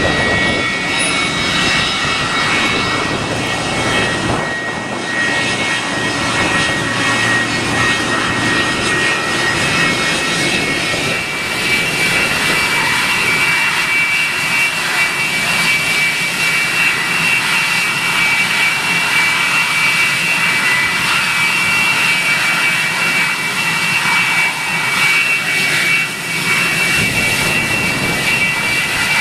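Boeing 727's three Pratt & Whitney JT8D turbofan engines running loud, a dense jet roar with a steady high whine. The whine grows stronger about eleven seconds in as the deeper rumble eases.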